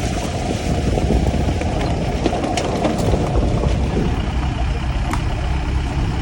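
A motor vehicle's engine running steadily with a low rumble, with a few faint clicks over it.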